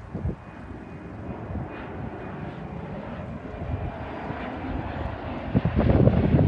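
Jet airliner's engines, a steady noise that builds slowly and grows clearly louder over the last second.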